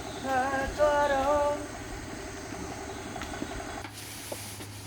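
A person's voice in held, sing-song notes for about a second and a half, then low background hiss. About four seconds in the background changes abruptly and a low steady hum starts.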